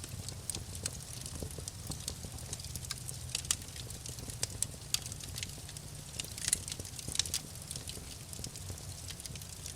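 Wood fire crackling, with irregular sharp pops scattered over a steady low rumble of flame.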